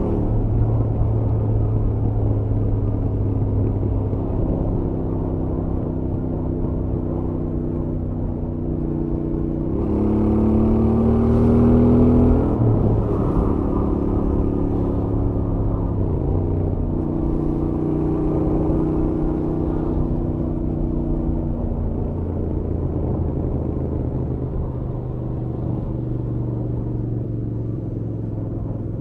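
Royal Enfield Interceptor 650's parallel-twin engine on its stock exhaust, heard from the rider's helmet at a steady highway cruise. About ten seconds in the engine revs up for a couple of seconds, its pitch rising, then drops suddenly, and it settles back to a steady cruising note.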